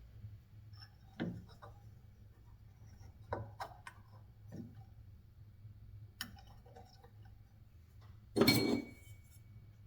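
Small metal motor parts and tools being handled on a bench: scattered light clicks and knocks, then a louder metallic clatter with a short ring about eight and a half seconds in.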